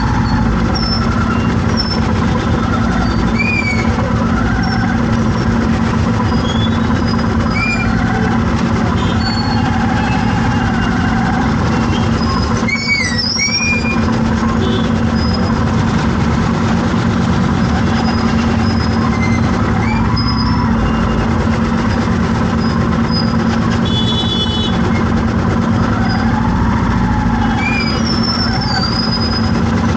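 Steady drone of a vehicle engine in road traffic, with short high chirps now and then and a brief high tone a little past the two-thirds mark.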